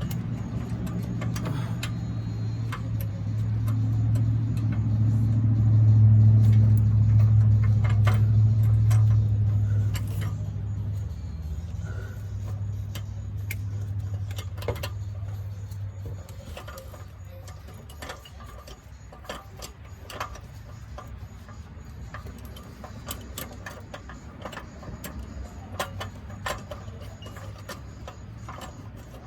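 A low steady drone, like a vehicle engine, swells over the first several seconds and fades out by about sixteen seconds in. Scattered clicks and metal knocks from handling tools and parts come through the whole time.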